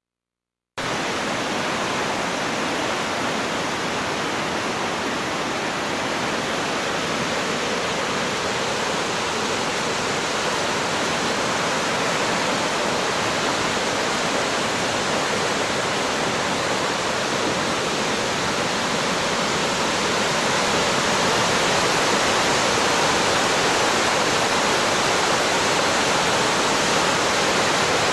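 Floodwater rushing in a steady, dense roar of water, cutting in abruptly about a second in and growing slightly louder in the last third.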